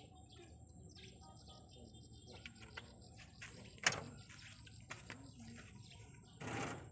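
Small birds chirping in short, high calls, with a sharp knock about four seconds in and a brief rustling noise near the end.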